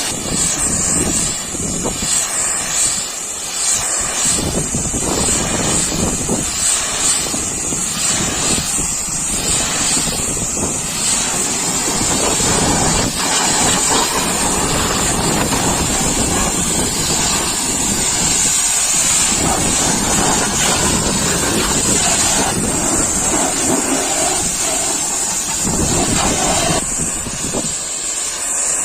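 High-pressure washer spraying water, a loud steady rushing hiss.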